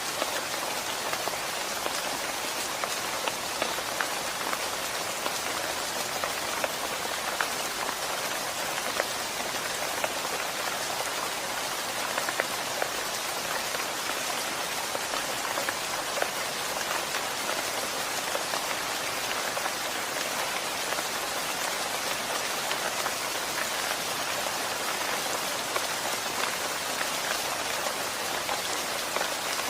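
Steady rain falling, an even hiss with many small scattered drop ticks striking surfaces.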